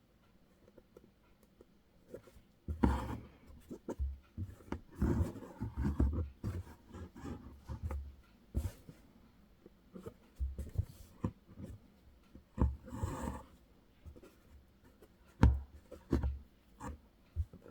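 Hand embroidery: needle and thread being pushed and pulled through fabric stretched in a hoop, giving irregular scratchy rustles with sharp ticks and a few soft thumps.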